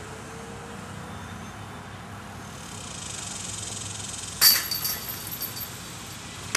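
A disc hitting the chains of a disc golf basket about four seconds in: a sharp metallic crash, then about a second of jangling chains as the putt goes in.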